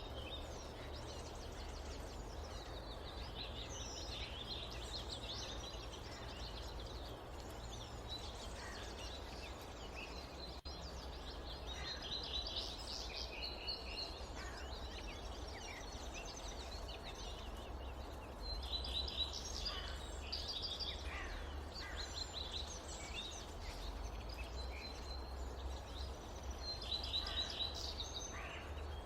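Forest ambience: several birds calling in quick chirps and trills, busiest around the middle and near the end, over a steady low background rumble.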